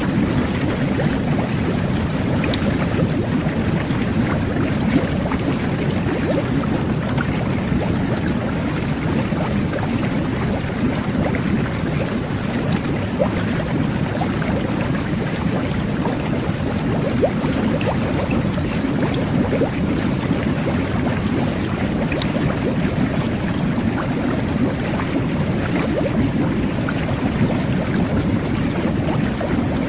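Jet bath (whirlpool tub) running: water jets and air bubbles churning the bathwater in a steady, low, bubbling rush with small pops.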